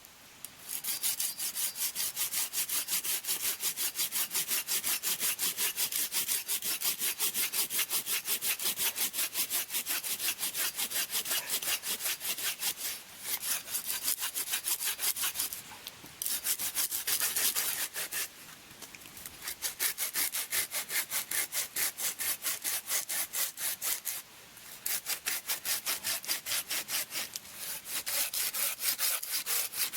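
Hand saw cutting through wood in quick, regular back-and-forth strokes, pausing briefly a few times before carrying on.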